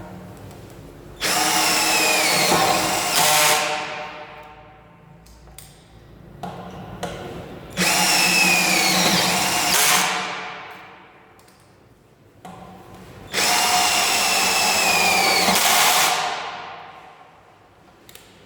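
Cordless drill driving screws in three runs of about two seconds each. At the end of each run the motor's whine falls in pitch as it winds down.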